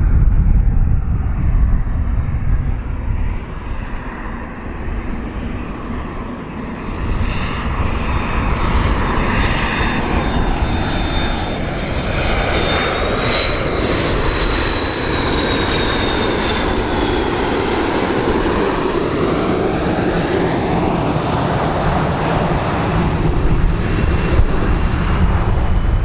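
Airplane engines running loud and steady, with a high whine that rises and then falls about halfway through.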